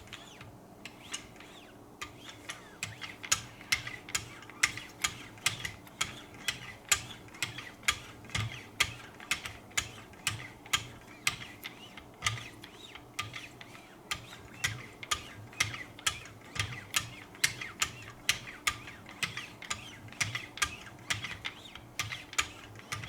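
Wicked Edge guided knife sharpener at its final 0.5-micron stage, worked in quick strokes along the knife's edge, with a sharp tick at each stroke, about two a second. This is the last polishing pass that puts a mirror finish on the edge.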